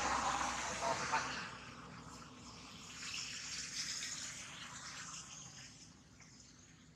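Water running and splashing, louder at the start, swelling again midway, then fading.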